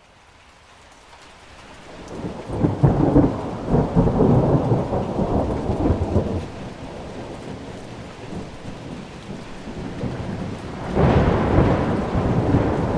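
Thunderstorm: steady rain with rolling thunder. The sound fades in from silence, a long thunder rumble builds about two and a half seconds in and dies away over several seconds, and a second rumble breaks near the end.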